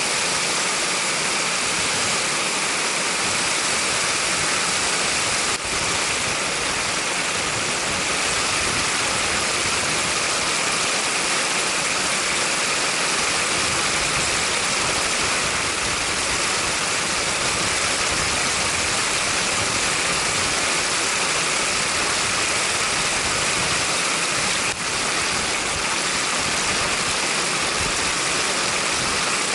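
Hail and heavy rain falling steadily, a dense, even hiss.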